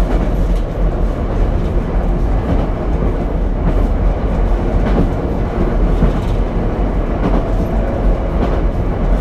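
Ichibata Electric Railway 7000-series railcar running along the line, heard from inside the car: a steady low rumble of wheels and running gear, with a few faint knocks over the rails.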